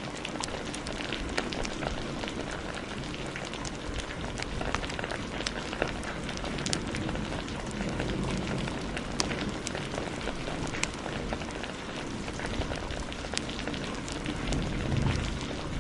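Steady heavy rain mixed with a crackling wood fire, sharp pops scattered throughout, and a low rumble of thunder swelling near the end.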